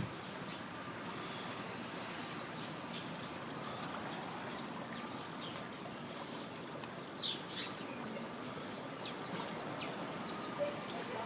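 Small birds chirping in short, high, downward-sliding calls, scattered and coming in little clusters, over a steady background hiss.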